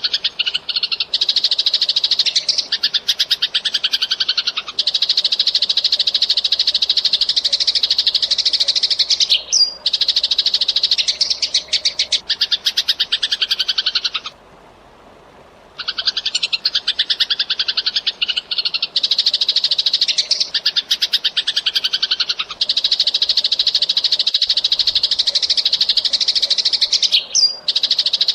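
Eurasian tree sparrow chirping in a fast, dense, unbroken chatter of high chirps, with one pause of about a second and a half near the middle.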